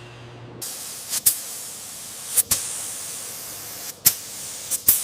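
A motor hum cuts off just after the start. It gives way to a steady spraying hiss with a few short swells, each ending in a sharp snap, about four times.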